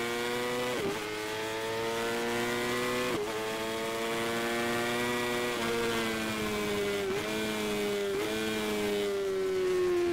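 Sports motorcycle engine at racing speed, pulling up through the gears: the note climbs steadily and dips sharply at each of several quick upshifts. Near the end the pitch falls steadily as the engine slows off the throttle.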